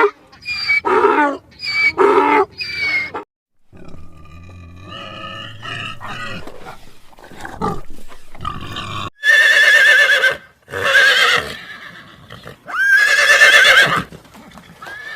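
A horse whinnying three times in the second half, each a loud, long, quavering call. The first seconds hold a quick series of short, falling calls from another animal.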